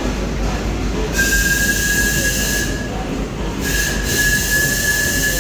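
Steam whistle blown twice, a steady high note with a hissing edge, over the low rumble of running steam machinery; the second blast, about a second after the first, is held longer.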